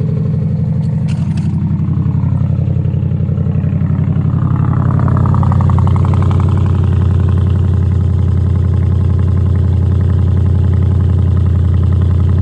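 Straight-piped 2014 Dodge Charger R/T's 5.7-litre Hemi V8 idling loudly and steadily just after a cold start, its deep exhaust note unmuffled.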